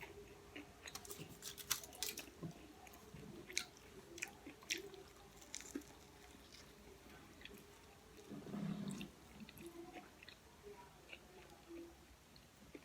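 A person chewing and biting food close to the microphone: faint, scattered small crunches and wet mouth clicks, with a brief louder swallow or mouth sound a little past the middle.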